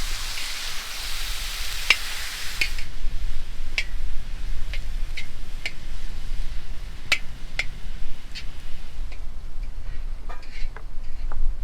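Cooking over a fire: a hiss of frying for about the first three seconds that cuts off abruptly, then sharp irregular clicks and taps of a utensil against a pan or pot.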